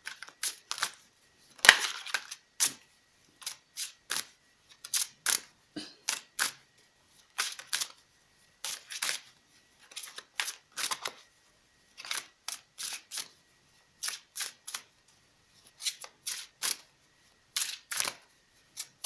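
A deck of tarot cards being shuffled and handled: an irregular run of short, crisp card snaps and flicks, about one or two a second.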